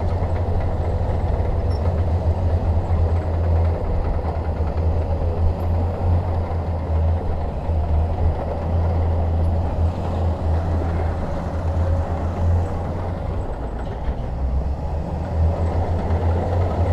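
Shantui DH17 bulldozer's diesel engine running steadily with a low, heavy rumble, as at work pushing fill.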